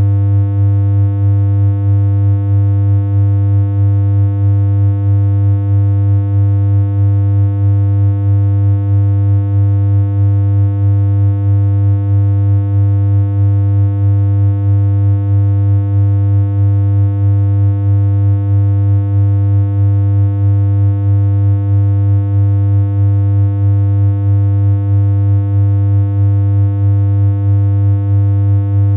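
Steady synthesized electronic hum: one constant low pitch with a ladder of overtones, held without change.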